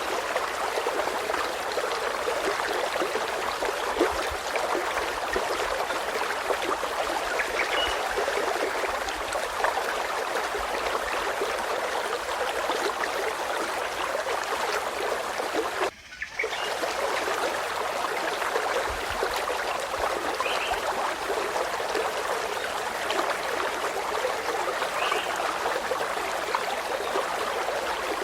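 A stream of running water trickling and babbling steadily, cutting out for a split second about halfway through. A few faint, short, high calls rise above the water.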